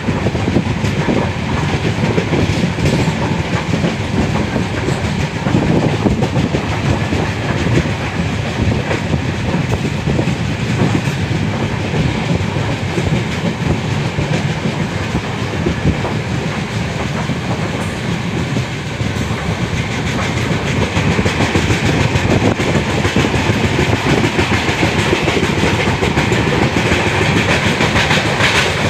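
Passenger train running along the track, heard from an open coach doorway: a steady rumble of the wheels on the rails with fast clickety-clack.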